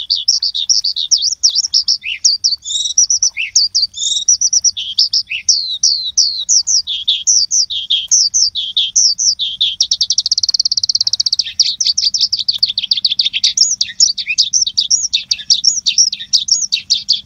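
Birds chirping continuously in a dense stream of quick, high chirps and short downward-sweeping notes, with a fast, even trill lasting over a second about ten seconds in.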